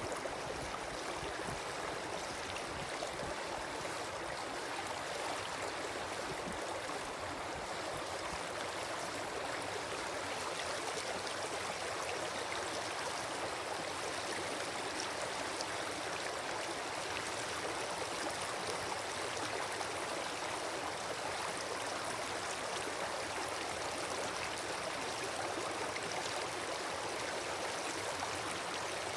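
Wood campfire burning: a steady hiss with faint scattered crackles.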